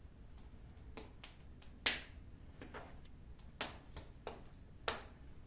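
Dry oak firewood crackling in a fireplace: irregular sharp pops, about seven of them, the loudest about two seconds in.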